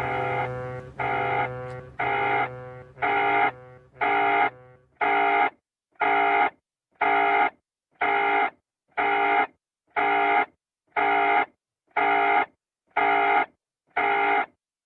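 Electronic alarm buzzer beeping about once a second, each beep about half a second long. Background music runs under it for the first few seconds, then fades out.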